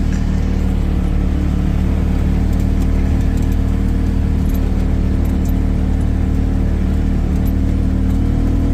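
Engine of a snow-plowing vehicle running steadily at a constant pitch, with a low hum and a few faint ticks and rattles.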